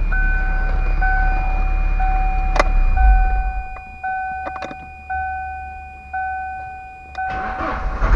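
A Ford Scorpio's engine runs, then stops about three seconds in. A dashboard warning chime dings about once a second, with a few clicks. Right at the end the starter cranks and the still-cool engine catches at once.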